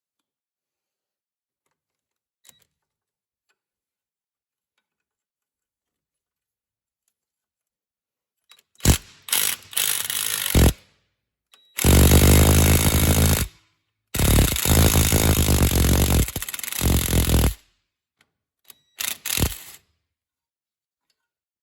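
Ryobi ONE+ 18V R18IW3 cordless impact wrench hammering on car lug bolts in four bursts, starting about nine seconds in; the longest burst lasts about three seconds.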